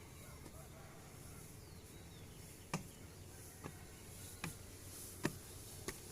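Faint steady insect buzz, with five sharp taps at irregular spacing in the second half, the fourth the loudest.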